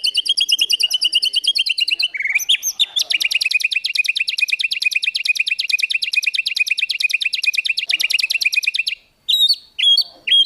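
Songbird singing a rapid-fire trill of identical high notes, more than ten a second, in the 'tembakan' style prized in masteran recordings. The trill breaks briefly about two seconds in, starts again for about six seconds, and then gives way to three separate rising notes near the end.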